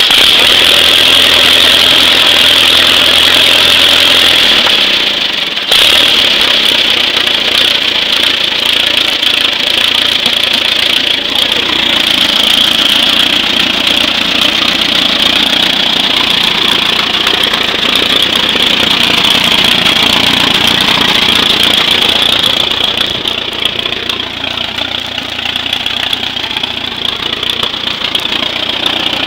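Engine of a 1937 Allis-Chalmers tractor running steadily and loudly.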